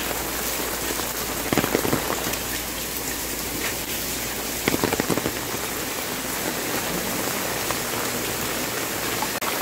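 Steady rain falling, an even hiss of drops, with a few brief taps about two and five seconds in.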